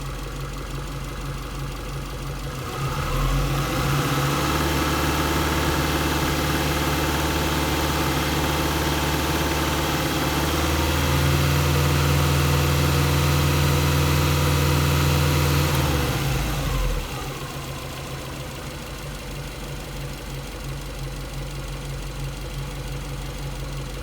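Subaru EJ207 turbocharged flat-four idling, then held at raised revs from a few seconds in, stepping a little higher about halfway, and dropping back to idle after about seventeen seconds.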